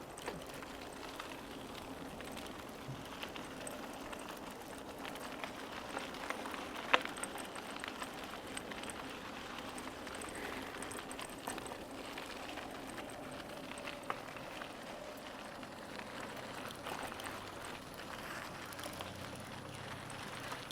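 Bicycle tyres rolling along a trail surface, a steady crackling noise with scattered small clicks and one sharp click about seven seconds in.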